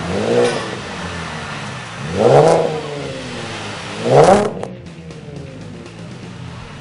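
Chevrolet Camaro with a custom exhaust revved three times, each rev climbing and dropping back, then settling to a steady idle.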